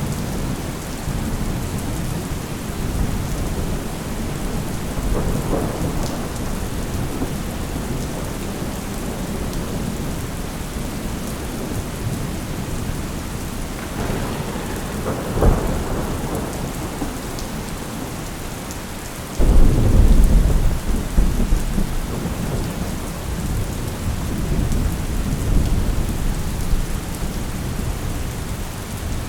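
Thunderstorm: steady rain falling, with thunder rumbling at intervals. A short sharp crack comes about halfway through, then a sudden loud clap of thunder with a low rumble that dies away over several seconds.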